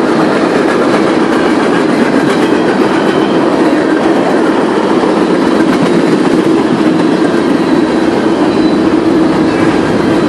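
Freight cars of a manifest train, covered hoppers and tank cars, rolling past close by: a loud, steady noise of steel wheels running on the rails.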